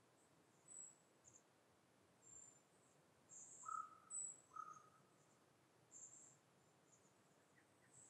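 Faint forest ambience with scattered, very high, thin chirps of small songbirds every second or so, and two short lower notes near the middle.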